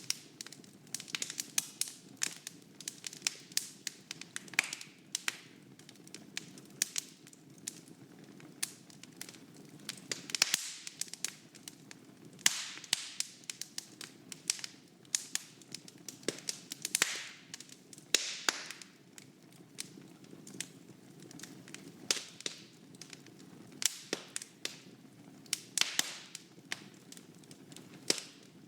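Wood fire burning in a fireplace: irregular sharp crackles and pops, several a second, over a low steady hiss of the flames.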